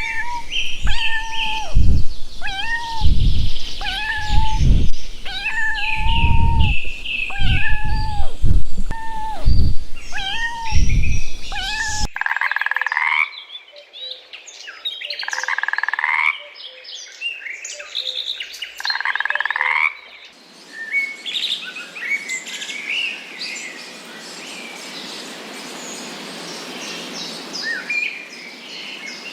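Animal calls in three cut-together stretches. First comes a long run of short, pitched calls about a second apart, with low thumps beneath them. Then come three longer calls, and then a background of many small chirps.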